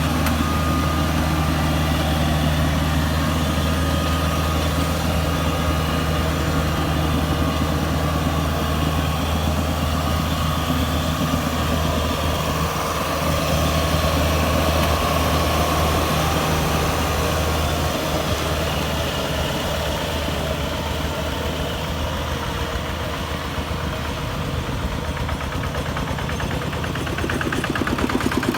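Kubota DC-70 Plus combine harvester's diesel engine running steadily, with mechanical clatter over it; a rapid, even rattling pulse comes in near the end.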